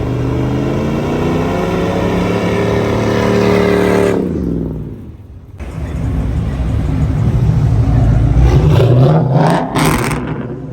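Car engine revving hard, its pitch climbing steadily for about four seconds before cutting off sharply. After a brief lull the engine comes back in as a loud, rough rumble, with a few sharp cracks near the end.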